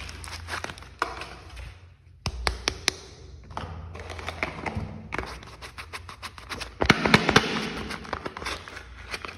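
Soap packaging handled and unwrapped close to the microphone: crinkling wrapper with many small taps and clicks, and a louder burst of rustling about seven seconds in.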